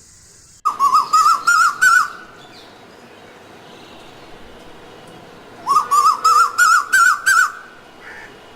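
A bird calling in two runs of loud, repeated whistled notes, about seven notes to a run, each run climbing in pitch. The first run comes within the first second and the second about five seconds later.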